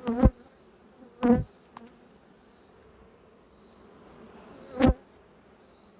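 Honeybees buzzing in a low, steady hum around an open hive, broken by three loud, short thumps: one right at the start, one about a second in, and one near the end.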